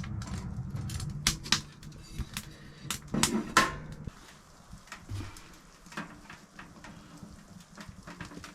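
Scattered sharp clicks and knocks, of objects being handled, over a low steady hum that cuts off about four seconds in.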